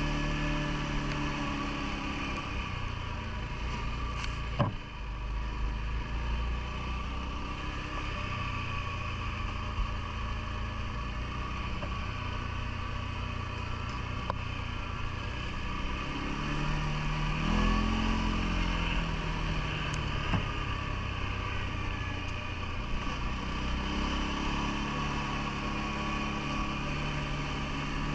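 CFMoto ATV engine running while riding, its pitch falling and rising with the throttle several times, with one sharp knock about four and a half seconds in.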